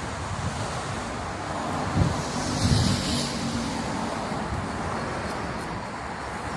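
Road vehicle noise with wind on the microphone; a vehicle passes louder about two to three seconds in.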